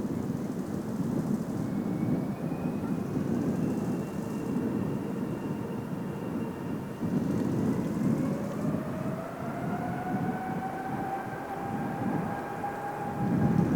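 Boeing 777's GE90 turbofan engines spooling up, a whine rising slowly in pitch from about two-thirds of the way in, over a deep jet rumble that swells and fades.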